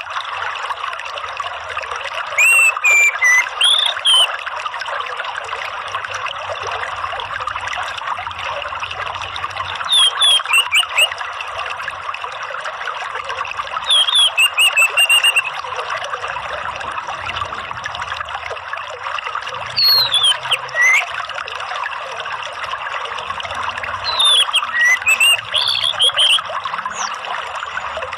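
Steady trickling of running water, with an orange-headed thrush (anis merah) singing short phrases of sharp, gliding whistles over it every four to five seconds. This is a lure recording meant to prompt a caged anis merah to sing.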